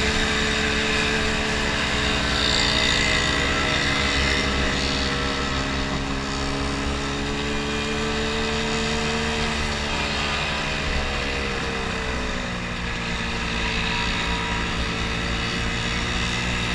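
Vespa scooter engine running steadily, its pitch sagging a little about ten seconds in, then holding.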